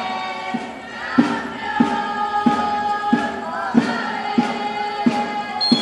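Many voices singing together in long held notes over a steady drum beat, about three beats every two seconds.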